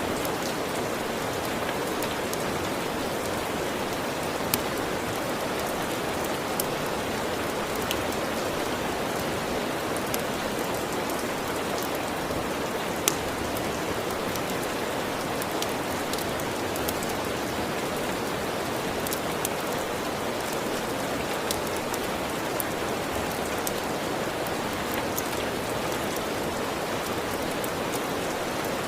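Steady rain falling, an even hiss of drops on a surface, with scattered sharp clicks through it, a louder one about halfway through.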